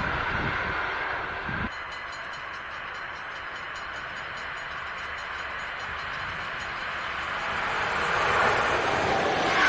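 Electric locomotive-hauled passenger train approaching. Its running noise drops abruptly about two seconds in, then grows steadily louder over the last few seconds as the train nears.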